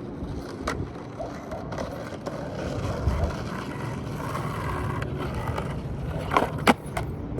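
Skateboard wheels rolling on pavement with a steady rumble, broken by a few sharp clacks, two close together near the end.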